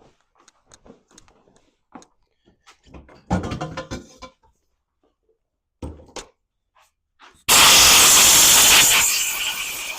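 Parts and tools being handled with scattered clicks and a short clatter. About seven and a half seconds in, a loud hiss of escaping air or spray starts suddenly, stays strongest for about a second and a half, then eases off but keeps going.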